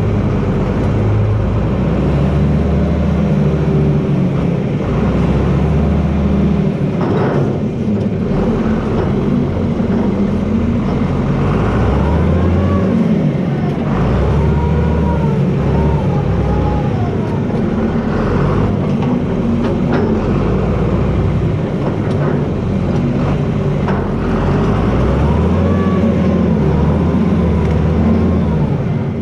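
John Deere 4320 tractor's six-cylinder diesel engine running under working load, its low note rising and falling as the load changes. Thin, wavering squeals rise and fall over it twice, in the middle and near the end.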